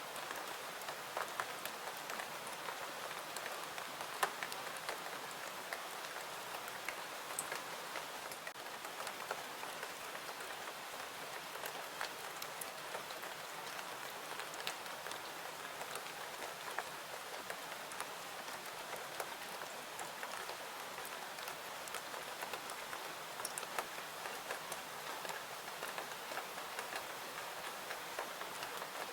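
Steady rain falling, an even hiss dotted with scattered sharp ticks.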